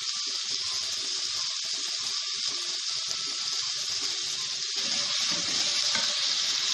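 Sliced onions sizzling in hot oil in a karahi, a steady hiss. About five seconds in it grows louder as raw beef mince goes into the pan.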